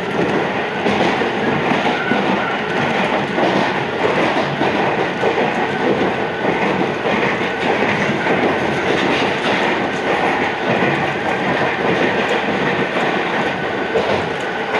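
Iyotetsu 3000 series electric train running on the line, a steady rolling noise of wheels on rail with scattered clicks of rail joints.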